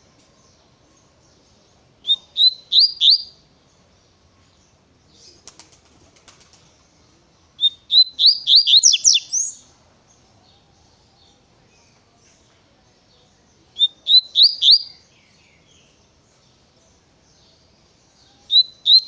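Double-collared seedeater (coleiro) singing the tui-tui song in short, fast phrases of rising whistled notes, four phrases a few seconds apart, the last starting near the end. A faint rustle comes about five seconds in.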